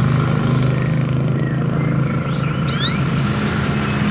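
A motor engine running steadily, with a bird giving a few short, quick rising chirps about two-thirds of the way through.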